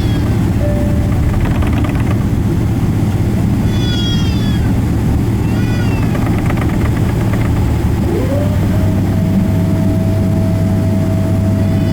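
Steady loud cabin drone of a Boeing 777-300ER airliner. Short, high, wavering meow-like cries come a few times, at about 4 s, 6 s and at the end. About 8 s in, a whine rises in pitch and then holds on one steady note.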